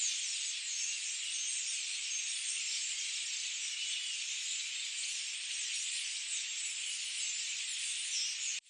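Dense chorus of many forest birds chirping and trilling over one another, a steady high-pitched wash of overlapping calls. Near the end it cuts out suddenly and fades back in.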